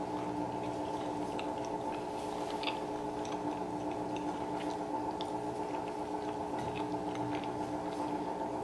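Close-miked, closed-mouth chewing of a breakfast sandwich, with scattered soft wet mouth clicks, over a steady hum.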